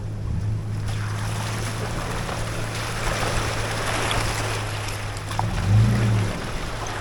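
A vehicle engine running steadily with tyre and wind noise, its note rising briefly a little over five seconds in.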